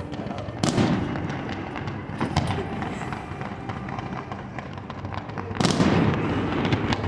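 Fireworks going off: two loud bursts, one just under a second in and one near the end, with a smaller one between, and scattered crackling.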